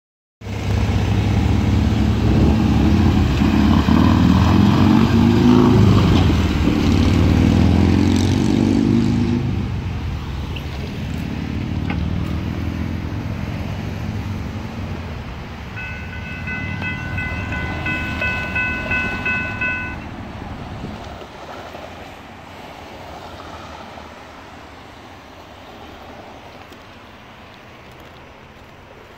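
A train passing a railroad grade crossing close by: a loud, heavy rumble for the first ten seconds, then fading as it moves away down the track. About sixteen seconds in, a high, slightly pulsing ringing tone sounds for about four seconds.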